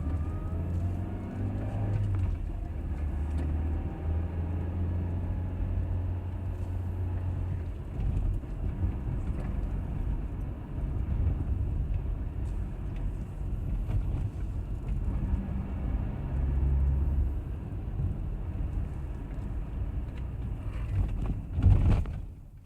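Car interior driving ambience: engine running and road rumble heard from inside the cabin, the engine note shifting as the car changes speed, fading out at the end.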